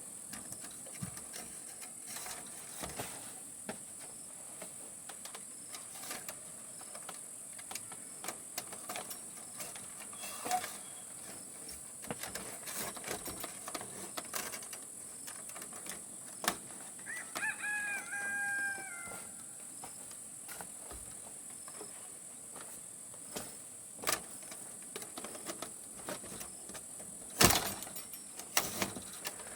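A rooster crows once, about two-thirds of the way in: a short call of about two seconds with a flat, held tone. Behind it runs a steady high-pitched drone of insects, with scattered small clicks and snaps, and a sharp knock near the end is the loudest sound.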